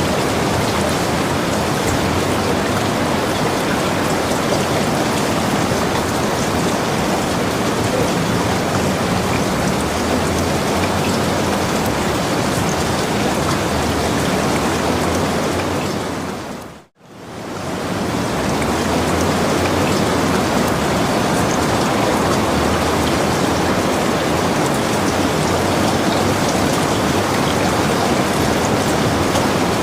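Steady heavy rain, a dense even hiss of falling drops. About halfway through it fades out to near silence and straight back in within a second or two.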